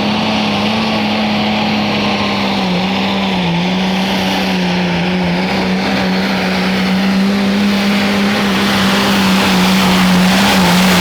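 Pulling vehicle's engine running hard at high, nearly steady revs under load, with its pitch dipping briefly a few times, and growing louder toward the end.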